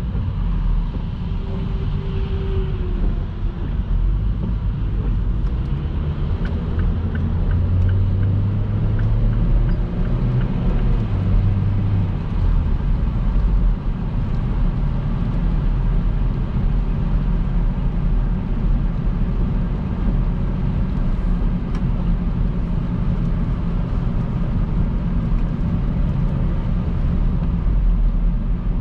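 Car driving at motorway speed on a rain-wet road: a steady low rumble of tyres and engine, with a slightly louder low hum for a few seconds in the first half.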